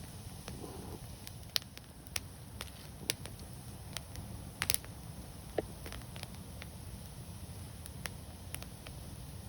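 Wood fire burning, crackling with irregular sharp pops, a quick cluster of them a little under halfway through, over a steady low rumble.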